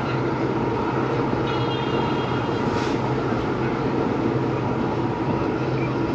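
EMD 16-cylinder two-stroke diesel engine of a WDP4B locomotive humming steadily at a constant speed, with a faint high tone briefly near the middle.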